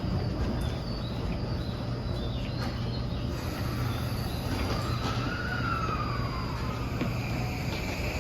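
Tokyu 2020 series electric train running, its inverter-driven traction motors giving the whine that earns it the nickname "microwave": a tone that glides up and then back down over a few seconds, with a new rising tone starting near the end. Under it is a steady low rumble of the wheels on the rails with a few sharp clicks.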